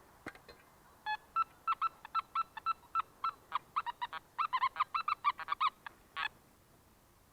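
Nokta Makro metal detector sounding a string of short target beeps as its coil is swept over the ground: one pip early, then a run of rapid beeps at a few pitches around 1 kHz that grows denser, before stopping about a second before the end.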